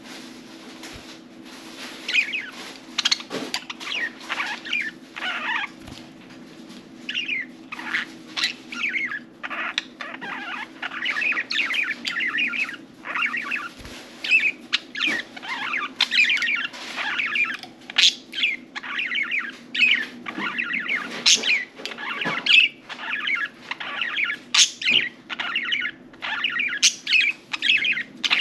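Budgerigars chirping and warbling continuously, many short calls overlapping, with sharp clicks mixed in over a steady low hum.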